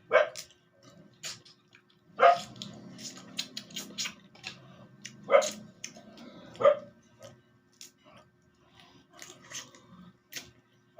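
A dog barking: four loud, short barks spread over about seven seconds, then only a few faint sounds.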